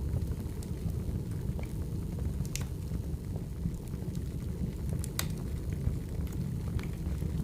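Wood fire burning: a steady low rumble with sharp crackles and pops, about one every second or so, the loudest near the middle.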